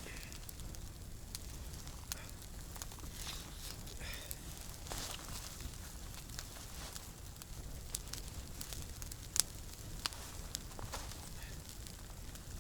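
Wood campfire burning, crackling with irregular sharp pops, one louder pop about nine seconds in.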